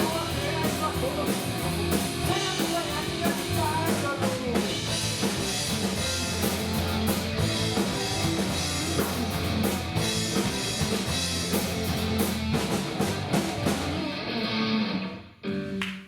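Rock music with drums and guitar, and a singing voice in the first few seconds; it cuts off suddenly near the end.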